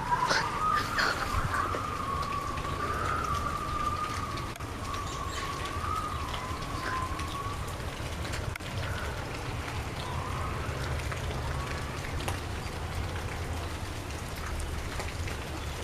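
Steady rain falling. A wavering whistle-like tone runs through the first half and comes back briefly later.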